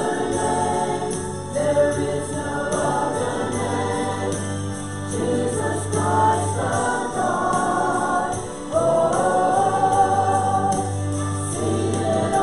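Group of voices singing a gospel hymn with instrumental backing, long held notes over a steady low bass tone.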